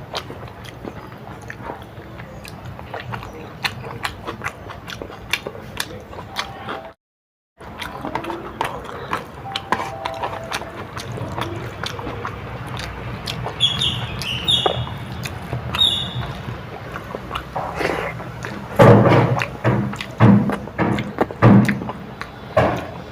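Close-miked eating sounds: chewing and mouth clicks from someone eating a dal-rice meal, with a few louder bites between about 19 and 22 seconds in.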